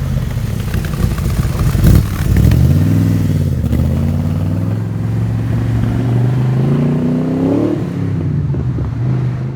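Car engine revving as it pulls away, with a sharp pop about two seconds in. It then settles to a steady low run and revs up again near the end.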